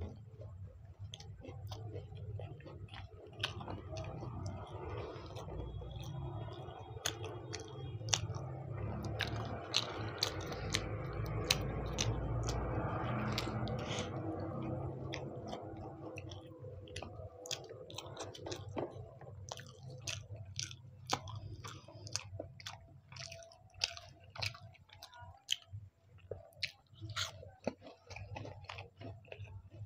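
A person chewing mouthfuls of samosa close to the microphone, with many small clicks throughout and a louder stretch of chewing near the middle.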